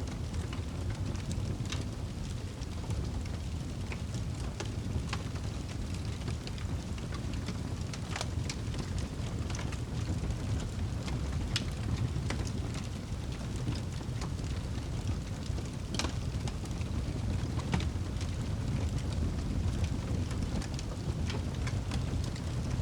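Wood fire burning in a fireplace: a steady low rumble of the flames with scattered crackles and pops, the sharpest about two-thirds of the way through.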